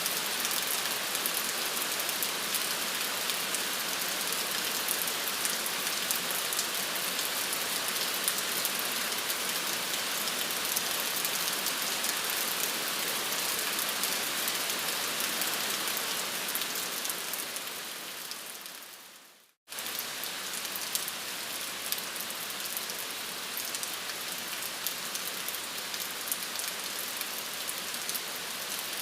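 Steady rain falling, an even hiss of many drops. About two-thirds of the way through it fades out to a moment of silence, then cuts back in abruptly, slightly quieter.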